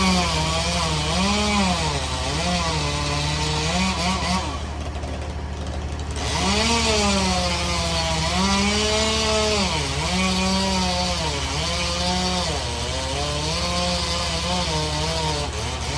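Chainsaw running and cutting, its engine note rising and falling as it is throttled and loaded, with a brief easing around the middle. Under it runs the steady low drone of other machinery idling.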